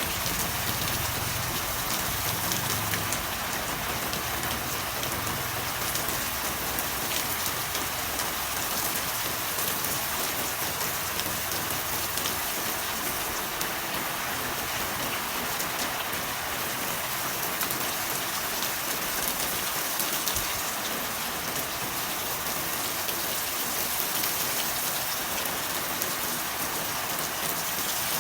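Steady rain falling, an even hiss with scattered drops. A low rumble underneath fades out within the first few seconds.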